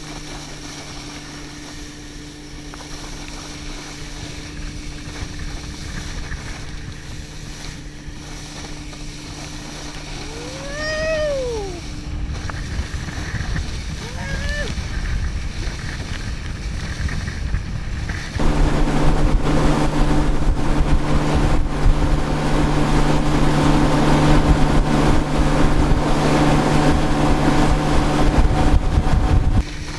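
Motorboat engine running at a steady hum, stepping up louder about 18 seconds in. Two short rising-then-falling calls sound over it, around 11 and 14 seconds in.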